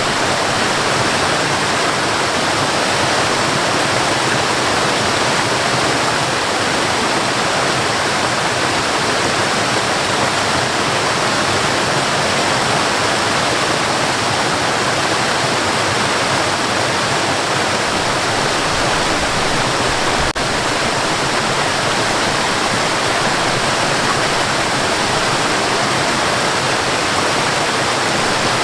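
Waterfall: a steady, dense rush of falling water, with one brief break in the sound about two-thirds of the way through.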